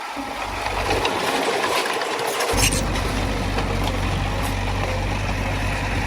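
Heavy earthmoving machinery's diesel engine running. A brief clatter comes about two and a half seconds in, and a strong, steady low engine note then holds to the end.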